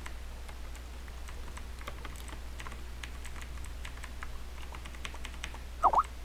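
Irregular light clicks, like keys being typed, over a steady low hum, with a brief squeaky sound that dips and rises in pitch just before the end.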